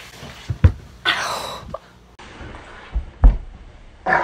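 A head knocking against a desk: a dull thump about half a second in, then a short hiss. The thump comes again, louder, about three seconds in as a replay of the same knock.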